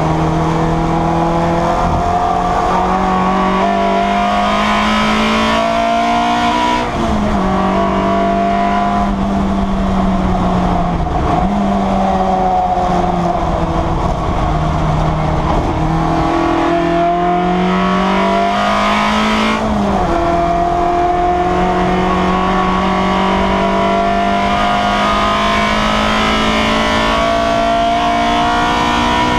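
Citroen Saxo saloon race car's engine heard from inside the stripped cockpit, pulling hard under racing load. Its note climbs steadily and drops sharply at gear changes about a quarter of the way in and again about two-thirds in, with a brief lift in between.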